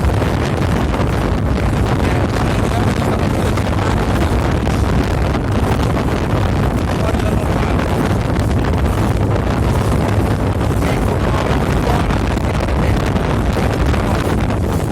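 Strong wind buffeting the microphone aboard a moving boat, a steady loud rumble with no break.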